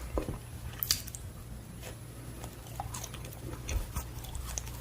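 Close-miked chewing of a blueberry baekseolgi, a Korean steamed rice cake, slightly hardened with age: soft mouth clicks and smacks coming at irregular intervals, over a low steady hum.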